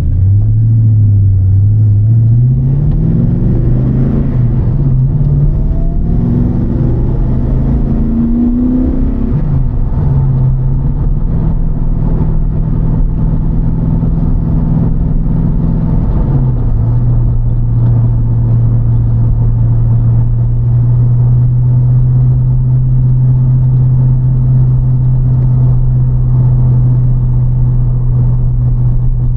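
TVR Chimaera's 4.65-litre Rover V8, with race cam and pre-cats removed, heard from inside the car as it accelerates through the gears: the engine note climbs and drops back at each shift over the first ten seconds or so. It then runs at a steady note and, after one more drop in pitch about halfway through, holds a lower steady cruise.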